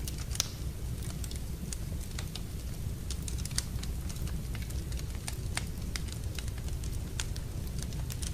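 Wood fire crackling in a fireplace: irregular sharp pops and snaps over a steady low rumble, with a louder pop about half a second in and another a little past three and a half seconds.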